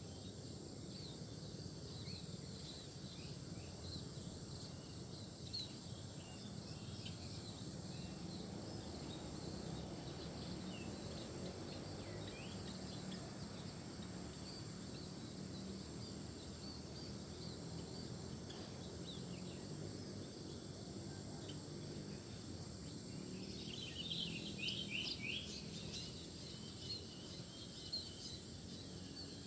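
Small birds giving scattered short chirps over a steady high insect drone and outdoor background noise, with a quick flurry of louder chirps near the end.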